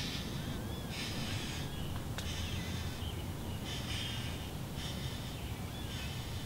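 Red-bellied woodpecker nestlings begging in the nest: raspy, hissing bursts about once a second or so, with faint thin chirps between them, over a steady low rumble.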